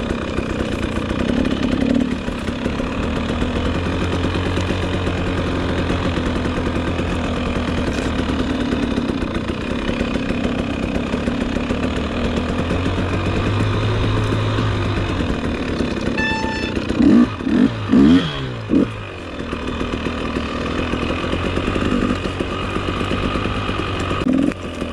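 Dirt bike engine running under load on a snowy uphill climb, with several sharp, quick revs about two-thirds of the way through.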